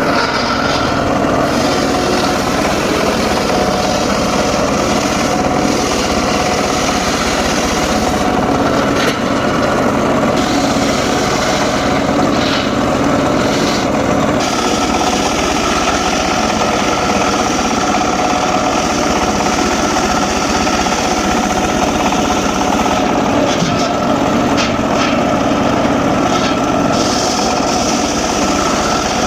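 Homemade engine-driven circular sawmill running steadily, a continuous mechanical drone with several steady tones held over it.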